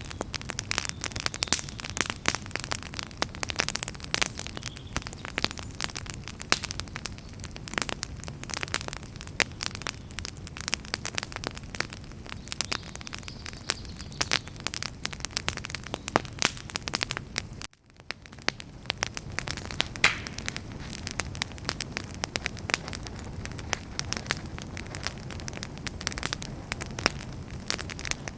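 Wood campfire burning, with dense irregular crackles and pops from the firewood over a low steady rumble. About two-thirds of the way through, the sound drops out for a split second, then fades back in.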